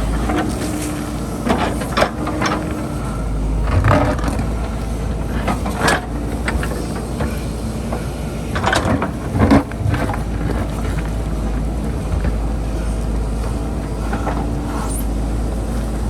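JCB backhoe loader's diesel engine running steadily under load while the bucket digs, with scrapes and knocks of the bucket on rock and earth every couple of seconds. The loudest knocks come about nine seconds in.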